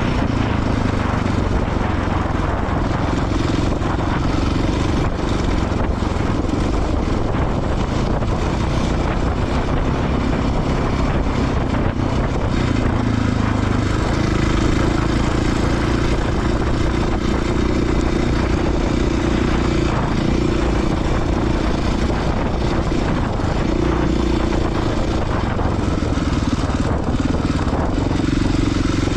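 Off-road motorcycle engine running continuously while riding a dirt trail, its pitch rising and falling a little with the throttle, over a steady rush of wind and trail noise.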